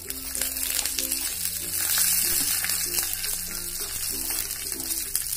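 Cashews and raisins frying in a small pan of hot fat, sizzling steadily as they are stirred with a spatula; the sizzle grows louder about a second and a half in.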